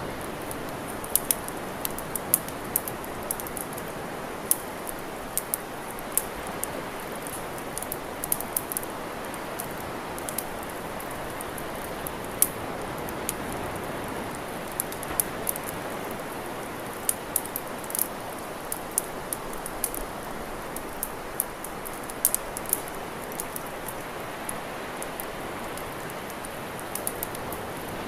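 Wood campfire crackling: irregular sharp pops and snaps, several a second, over a steady hiss.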